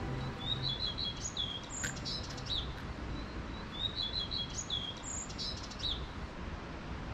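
A songbird singing two similar phrases of quick high chirps and short glides, the second about three seconds after the first, over steady faint outdoor background noise.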